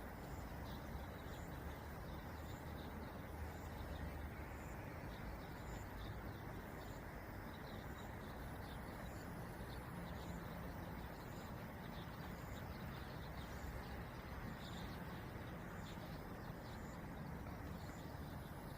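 Steady wind noise with small birds chirping over it, one short high chirp repeating about twice a second.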